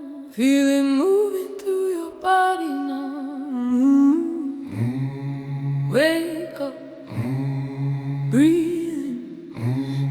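Music: a wordless female vocal chant, sliding and wavering between held notes, with a low sustained drone coming in about halfway through.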